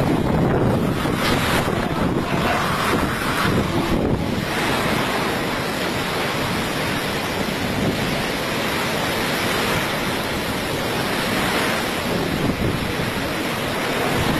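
Strong hurricane wind blowing across the microphone, with surf or storm waves underneath: a loud, steady rushing noise.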